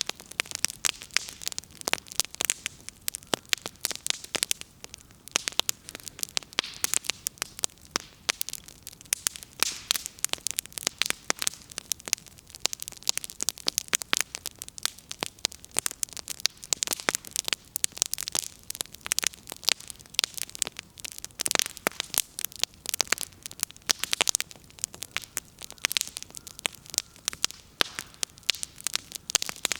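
Firewood burning in a bonfire, crackling: many sharp, irregular pops and snaps over a faint hiss.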